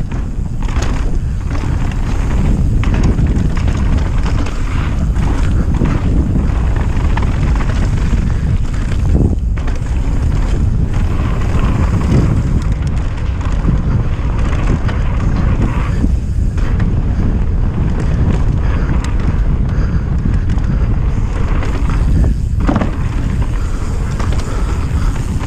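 Mountain bike riding fast down a dirt trail: wind buffeting the helmet-mounted action camera's microphone over tyre noise, with short knocks and rattles as the bike goes over rough ground.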